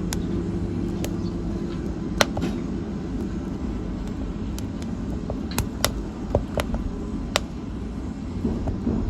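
Wood fire burning in a fireplace: a steady low rumble of flames with irregular sharp crackles and pops, the loudest about two seconds in and around six seconds in. A low steady hum fades out over the first couple of seconds.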